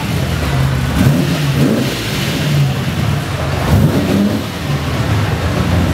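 Lamborghini supercar engine revved in short blips over a steady low running note, its pitch sweeping up and back down around one second in and again around four seconds in.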